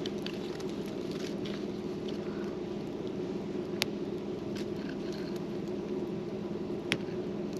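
Campfire burning with faint crackling and two sharp pops, the louder one near the end, over a steady low hum.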